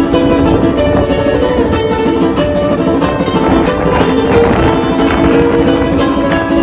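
Solo ukulele music: a fast piece of dense strummed chords and plucked melody notes.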